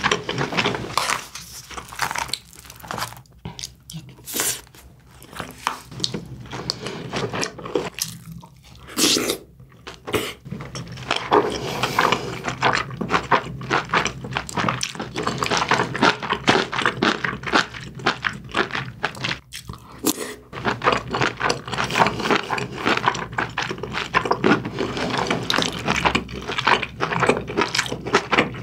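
A person chewing mouthfuls of braised aged kimchi and pork belly close to the microphone: a dense run of small wet clicks and crunches.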